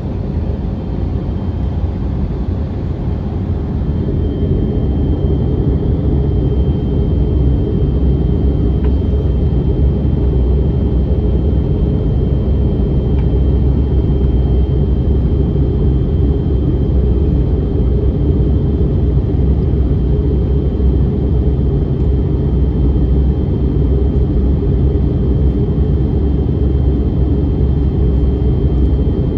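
Airbus A321neoLR cabin noise in flight: a steady rumble of engines and airflow, with a faint high steady tone. It grows louder over the first several seconds, then holds steady.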